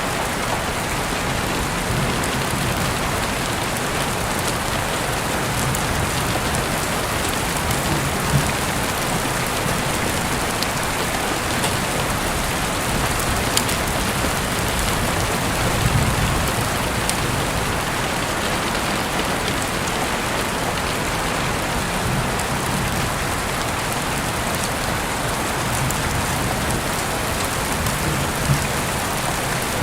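Heavy rain falling in a steady, even hiss, with scattered single drop ticks and a few brief low thuds, the strongest about halfway through.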